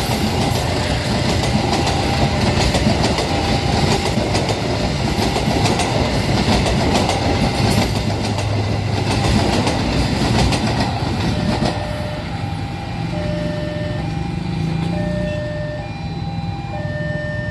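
A train passing close by, its wheels clattering over the rails with sharp clicks, dropping off about twelve seconds in. After that a two-tone electronic beeping repeats steadily.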